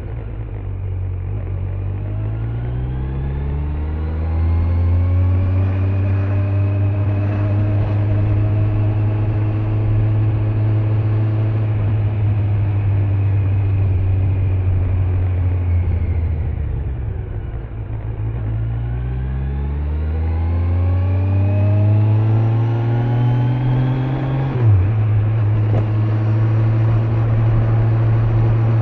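Kawasaki Z900 inline-four engine on the stock exhaust under way: it pulls up in pitch, holds steady, falls away as the rider eases off about halfway through, then climbs again. There is a sharp break in the note a few seconds before the end, after which it settles to a steady cruise. Wind and road noise run under it throughout.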